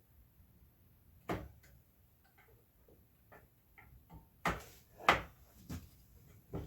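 Five sharp clicks and knocks of small metal parts and wire being handled and set in place, the loudest about five seconds in.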